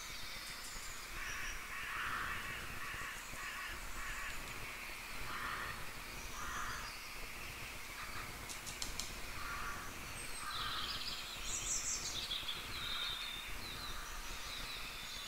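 Birds calling in the background: repeated short harsh calls and higher chirps, with a few faint clicks about nine seconds in.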